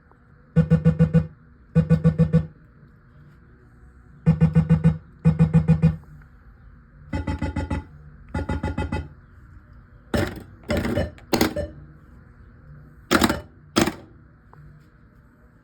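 1979 Gottlieb Pinball Pool pinball machine's electronic sound board playing bursts of rapidly pulsing tones: two pairs of bursts, then another pair of slightly softer ones, then several shorter, sharper bursts near the end.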